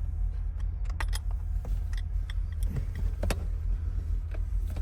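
Scattered light metallic clicks and clinks of hand tools and small parts working a trim plate off a steering column, over a steady low rumble.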